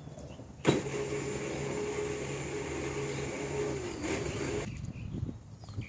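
Electric drive motor and gearbox of a battery-powered ride-on toy Ford Mustang whirring as the rear wheels are run. It switches on with a click under a second in, holds a steady whine, sags slightly in pitch, then stops about a second before the end.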